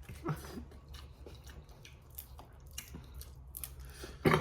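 Close-miked eating sounds from a crawfish boil: scattered small clicks and crackles of crawfish shells being snapped and peeled, with chewing. A louder click comes near the end.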